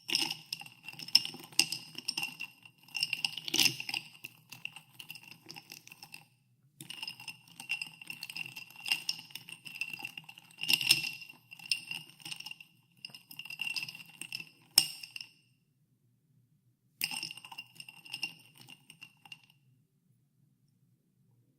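Ice cubes stirred in a glass of carbonated water, clinking against the glass in runs of rapid ringing ticks with short pauses between them. A sharp single clink comes about 15 seconds in, and the stirring stops a couple of seconds before the end.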